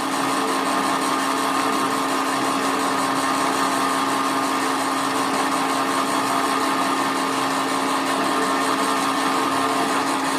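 A motor-driven workshop machine running steadily, a constant hum with a hiss over it.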